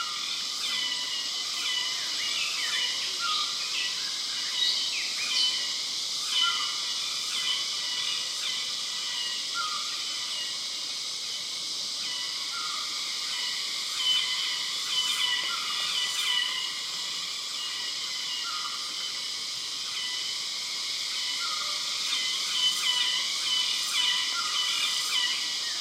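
Dense forest chorus of insects: a loud, steady high-pitched drone, with birds calling over it, one giving a short note about every two seconds, others chirping now and then.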